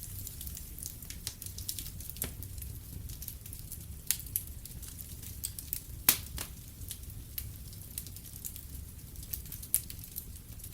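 Wood fire in a fireplace crackling, with irregular sharp pops over a steady low rumble; the loudest pop comes about six seconds in.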